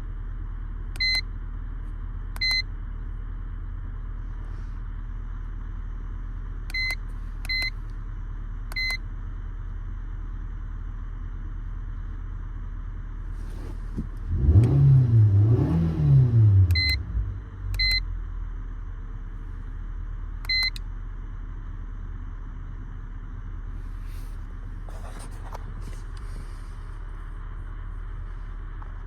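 Car engine running steadily, revving up and back down twice about halfway through, with short electronic beeps now and then.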